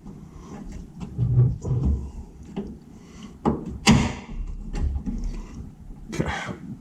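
Scattered clunks and knocks of metal car parts and tools being handled under a car, with a few sharper clanks about three and a half to four seconds in and again near the end.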